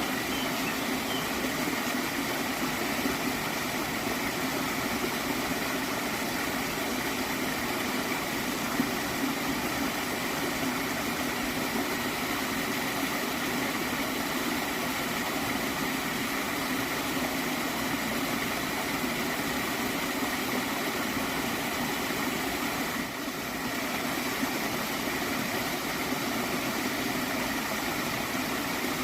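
Water flowing in a small stream, a steady, even rush with gurgling.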